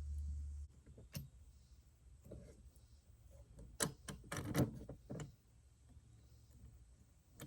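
Faint scattered clicks and taps of small carburetor parts being handled and fitted together by hand, a handful over several seconds with the busiest cluster about halfway through.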